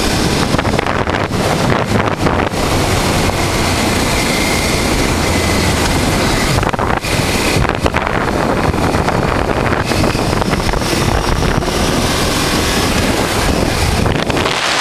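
Wind rushing over the microphone of a 1988 Honda Transalp V-twin motorcycle on the move, with the engine's steady running underneath.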